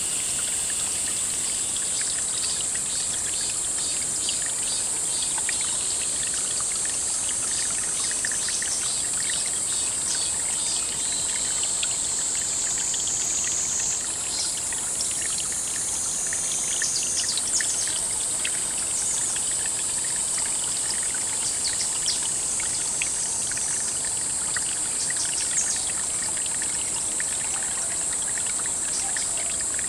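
Water trickling and running steadily, with a high steady hiss over it that dips in pitch and jumps back about halfway, and scattered small ticks and clicks.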